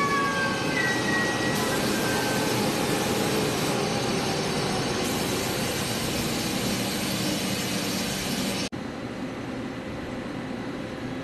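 Taiwan Railway train passing through the station. The last of its horn falls in pitch in the first second, followed by a steady rushing rumble of the train going by. About three-quarters of the way in, it cuts off suddenly to a quieter steady hum.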